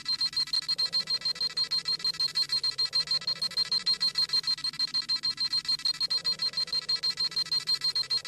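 Dragon Ball Z scouter sound effect: a rapid, evenly repeating high-pitched electronic beeping, about seven beeps a second, going on without change.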